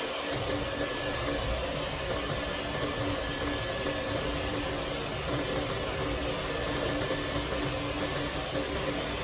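A vent-cleaning machine running steadily: a motor's constant hum under an even rush of air.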